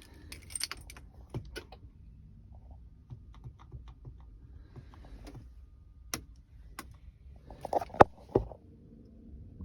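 Scattered clicks, taps and small rattles of hands working controls inside a truck cab, with a cluster of louder clicks and one sharp click about eight seconds in.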